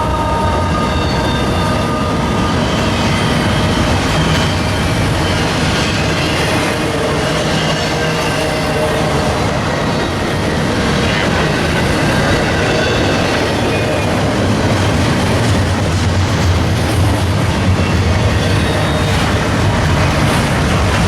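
Railcars of a passing train rolling by, a steady loud clatter of wheels on rail with faint, intermittent wheel squeal.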